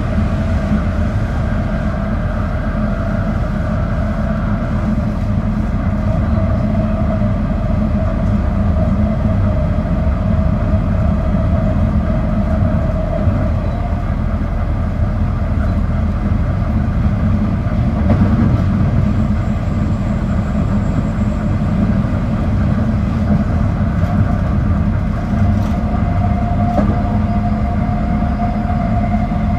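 Running sound inside the motor car of a JR 221 series electric train: a steady rumble of wheels on rail with a humming tone that wavers in pitch, fading around the middle and coming back slightly higher near the end.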